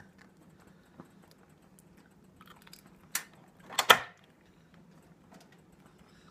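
A child chewing sticky maple-syrup candy, with a sharp click about three seconds in and a louder, brief clatter just before four seconds: a metal spoon knocking in a metal pan of snow.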